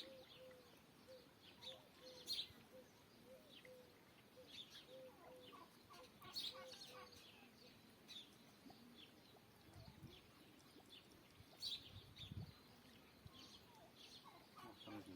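Faint birds: a run of short, evenly repeated low notes like a hen clucking through the first half, with scattered high chirps from small birds throughout.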